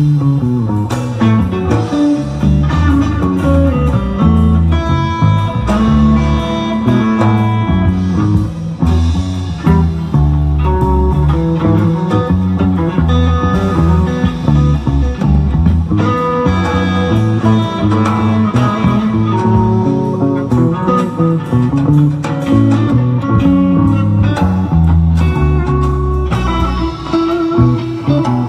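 Rock band playing an instrumental jam: electric guitar lines weaving over bass guitar, with no singing.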